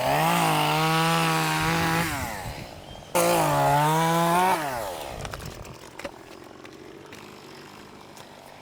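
Gas chainsaw run up to full throttle twice, each time holding a steady high engine note for about two seconds before dropping back. The second run-up starts abruptly about three seconds in. After that the saw falls to a quiet low idle.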